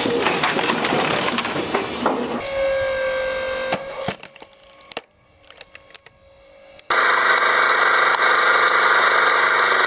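Wood cracking and splintering under a heavy machine, in short clips with abrupt changes: dense crackling first, then a stretch with a steady whistle-like tone, a quieter part with scattered snaps, and a loud steady machine noise from about seven seconds in.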